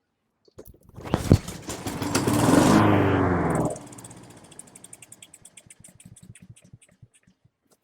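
Honda HRN216 lawn mower engine pull-started: it fires and runs for about two and a half seconds, then cuts out abruptly, with ticking as it spins down. It runs only briefly on starting fluid and won't keep going, a sign that fuel isn't getting through the carburetor, which the owner later puts down to a main jet seated wrong in the float bowl.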